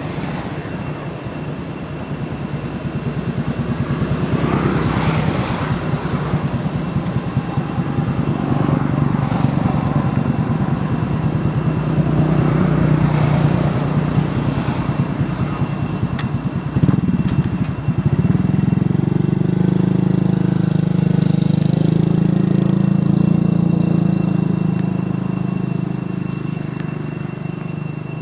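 A motor engine running steadily, with a low rumble that grows louder and steadier about two-thirds of the way through. Two steady high-pitched tones carry on above it.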